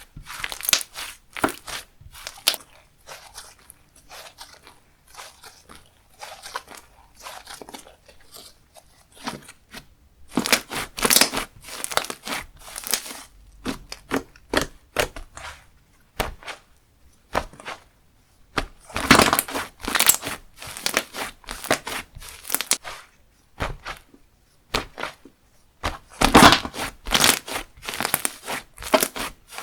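Slime being squished, folded and stretched by hand close to the microphone, making irregular crackling, clicking and tearing sounds. The play grows louder about a third of the way in, again about two-thirds in, and near the end.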